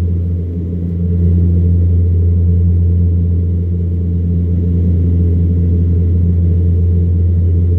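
Embraer EMB-120 Brasilia's twin turboprops heard from inside the cabin in flight: a loud, steady low propeller drone with a deep hum. The level dips slightly about half a second in.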